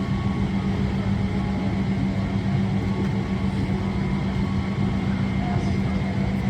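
Steady drone of a Boeing 777-300ER's cabin air and ventilation system with the aircraft parked at the gate: a constant low hum with faint steady whining tones above it.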